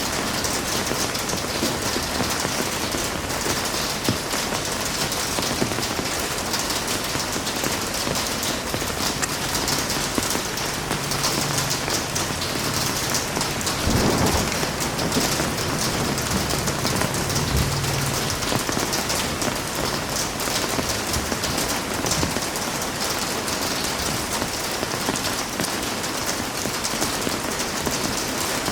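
Heavy rain falling steadily, with a low rumble of thunder about halfway through.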